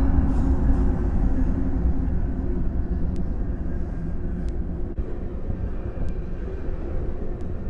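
Freight train's covered hopper cars rolling past on the rails: a steady low rumble of wheels on track, easing slightly, with a few faint clicks.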